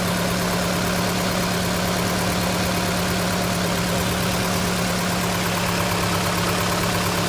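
2003 Nissan Altima's 2.5-litre four-cylinder engine idling steadily with an even hum. It is running again now that a new camshaft position sensor has restored the spark that was missing in the no-start fault.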